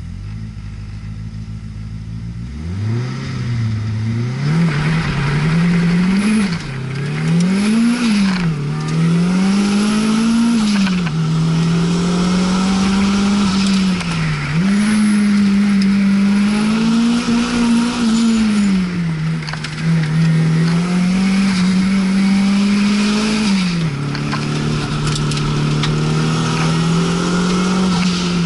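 Nissan S13 Silvia's engine heard from inside the cabin, pulling away about three seconds in and then driven hard, its note climbing and dropping sharply again and again through gear changes and corners.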